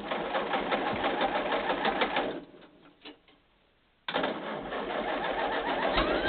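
An engine being cranked by its starter motor without catching: a fast, even clatter that dies away a little after two seconds, then starts again abruptly about four seconds in. The engine does not fire, so it won't start.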